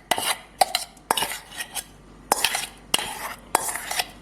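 A metal spoon clinking and scraping against steel vessels in irregular strokes, as soaked raw rice is scooped into a mixer-grinder jar.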